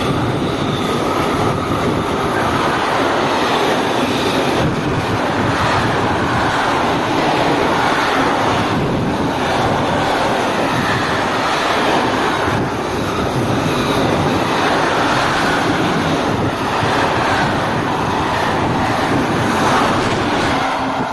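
Freight train rolling past, a steady rush of wheels on rail with slight dips every few seconds, mixed with wind on the microphone.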